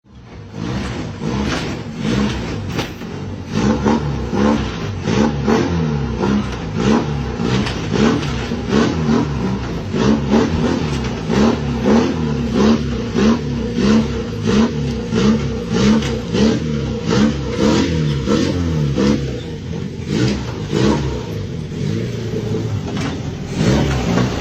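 Car engine being revved over and over, its pitch rising and falling in quick, regular pulses.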